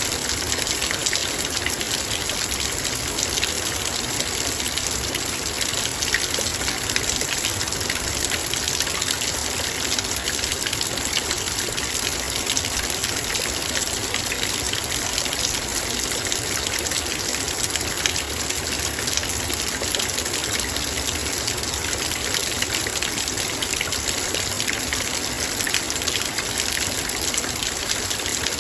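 Heavy rain falling on a metal bowl: a dense, steady hiss of drops striking the metal, unchanging throughout.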